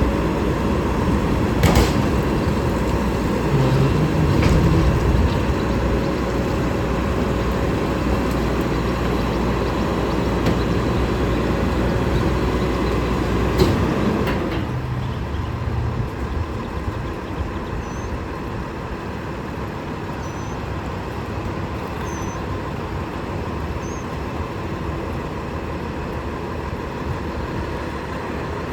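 Garbage truck engine running steadily, then quieter from about halfway through, with a sharp click about two seconds in and another just before the drop.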